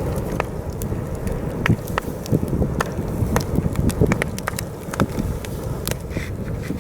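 Wood campfire crackling, with frequent irregular sharp pops, while heavy wind rumbles steadily against the microphone.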